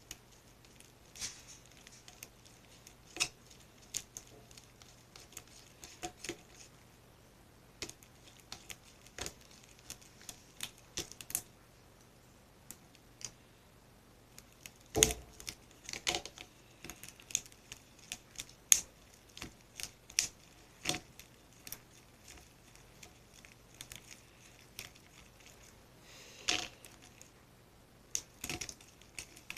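Glue slime being mixed as the contact lens solution makes it set: irregular sticky clicks, crackles and taps, with a few louder knocks about halfway through and near the end.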